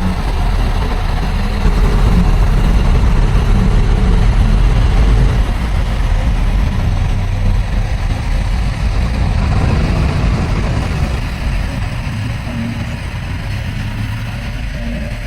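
Heavy diesel engine of earthmoving machinery running under steady load with a deep low rumble, a little louder about two seconds in and easing off somewhat in the last few seconds.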